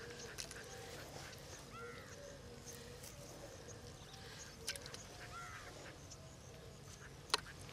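Faint outdoor background with birds calling: two short arched calls a few seconds apart and scattered high chirps. A few sharp clicks come through, the loudest near the end.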